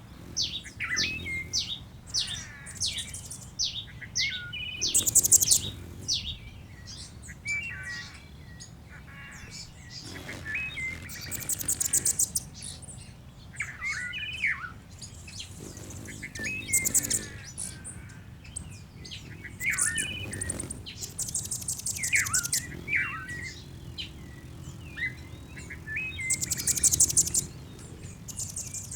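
Bird-song ambience: several songbirds chirping and whistling, with short swooping notes and, every few seconds, a very high, rapid buzzy trill.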